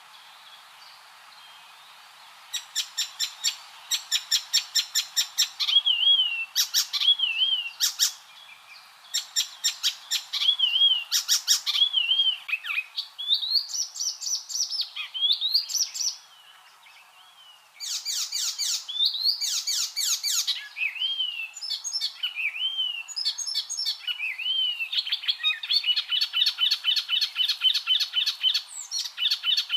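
Icterine warbler singing a varied, fast song: runs of rapidly repeated chattering notes mixed with short slurred whistles and rising notes. There is a short pause near the start and another about halfway through.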